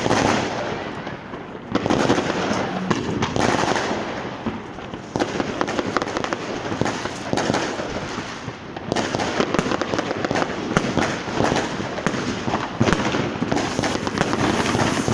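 Continuous crackling of fireworks and firecrackers going off in the street, with dense rapid crackle and sharp bangs; the crackle surges suddenly about two, five and nine seconds in.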